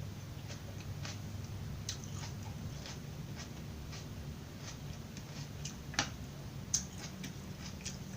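Close-up chewing of raw vegetables: soft crunches and mouth clicks over a low steady hum, with two sharper crunches about six and seven seconds in.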